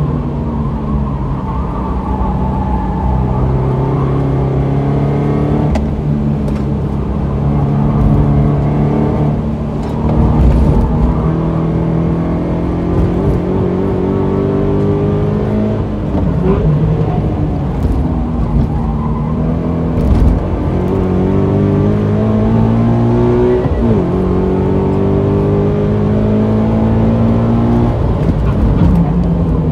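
2016 Subaru BRZ's 2.0-litre flat-four engine heard from inside the cabin while lapping a race track at speed. The engine note climbs repeatedly for a few seconds under acceleration and drops back several times between climbs.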